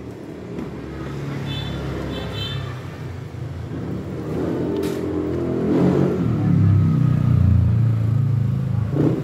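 Car engine running at low revs, getting louder and peaking a little past the middle as the car draws close. A brief high chirping sounds about two seconds in.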